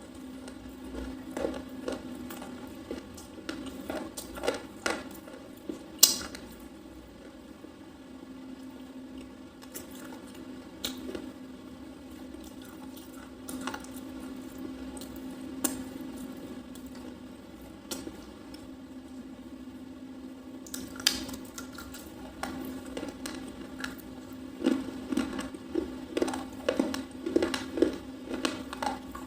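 A soft, crunchy red slate pencil being bitten and chewed close to the microphone: scattered sharp crunchy snaps, the loudest about six seconds in, then a quick run of chewing crunches near the end. A steady low hum sits underneath.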